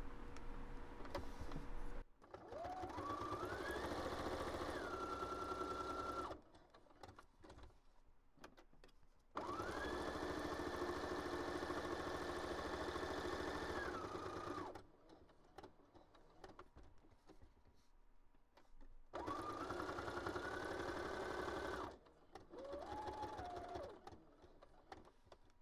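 Electric sewing machine stitching through a paper notebook cover in four separate runs. Each run's motor whine rises in pitch as it speeds up, then cuts off. The last run is short.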